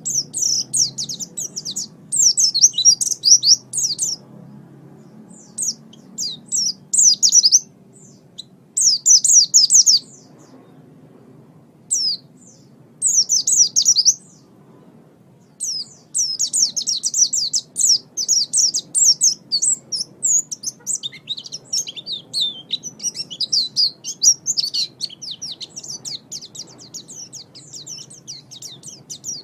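White-eye (pleci) singing: rapid, high-pitched twittering phrases, in bursts with short pauses through the first half, then a long unbroken run of song from about halfway.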